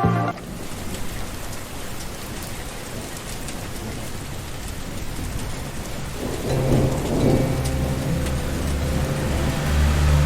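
Steady rain falling, with thunder rumbling low from about six seconds in and growing louder toward the end.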